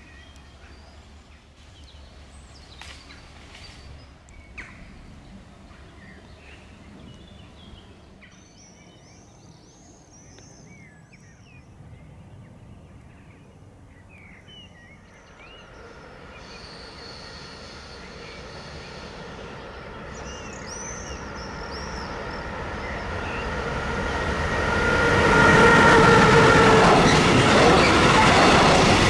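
Electric freight locomotive hauling an intermodal container train, approaching and passing close by. It grows steadily louder from about halfway, with a steady whine of several tones as the locomotive nears, then a loud rumble and rattle of wagons rolling past near the end. Faint bird chirps are heard before the train arrives.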